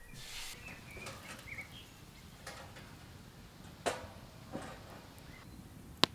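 A few light clicks and knocks, about four seconds in and again half a second later, then one sharp, loud click near the end. Faint bird chirps can be heard early on over quiet outdoor ambience.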